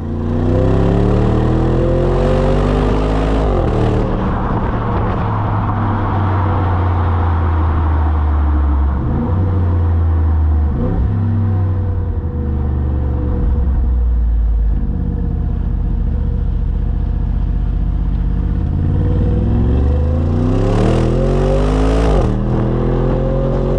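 Bentley Bentayga V8's 4.0-litre twin-turbo V8 under hard acceleration. The revs climb steeply twice, each time falling sharply at a gear change, and run steadier in between.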